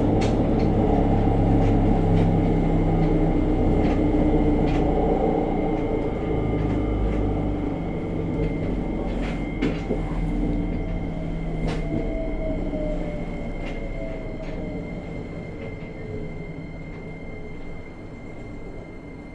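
303 series electric train's motor car running over its bogie as it brakes to a stop: the traction-motor hum and rumble fade steadily, with a falling whine and occasional clicks from the rails. This is a car noted for an abnormal growl and heavy vibration from around its motors.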